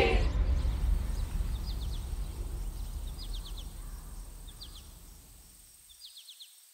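Outdoor ambience fading out, with a small bird repeating groups of three or four quick, high chirps about every second and a half.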